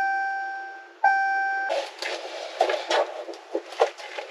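Two electronic chimes about a second apart, each a single tone that fades away, followed by a run of irregular clicks and rustling.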